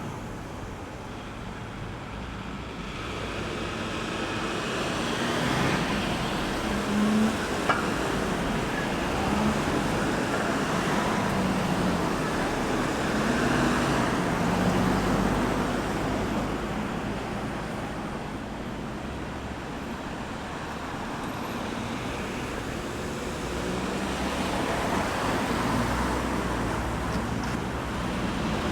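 Road traffic on a roundabout: cars and buses passing, engine hum and tyre noise swelling and fading as vehicles come and go, with a brief sharp knock about seven seconds in.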